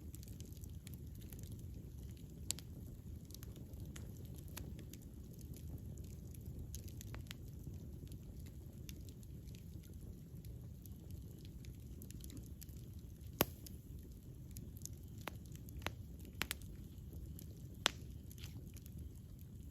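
Wood fire burning: a steady low rumble of the flames with scattered sharp crackles and pops, the loudest about two seconds in and several more in the second half.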